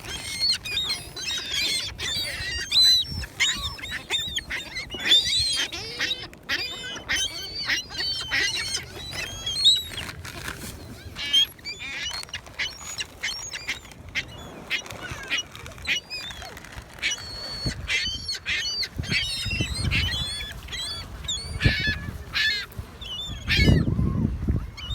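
A flock of gulls calling, many short high-pitched squawks overlapping one another without a break. Two low rumbles come in, one a little over three-quarters of the way through and a louder one near the end.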